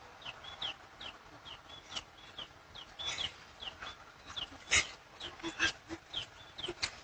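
Repeated short, high bird chirps, about two or three a second, with a few sharp clicks; the loudest click comes just before five seconds in.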